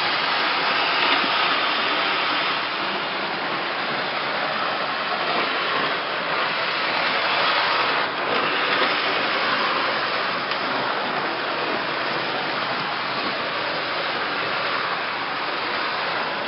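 Several O-gauge model trains running together on a large layout: a steady rolling rumble of wheels and motors on the track. The small track speeders are very quiet beside the rest.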